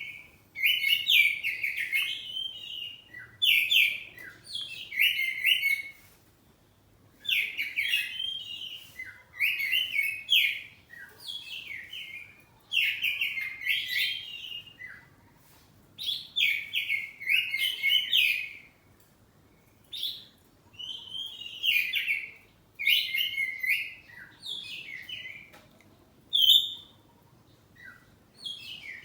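Oriental magpie-robin (kacer poci) singing loudly in a run of short, varied phrases of whistled and chattering notes, each a second or two long, with short pauses between.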